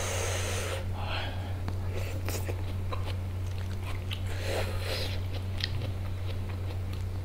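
Close-miked chewing and mouth sounds of a person eating biryani by hand, with short wet clicks and crunches, over a steady low hum. A louder burst of noise comes in the first second.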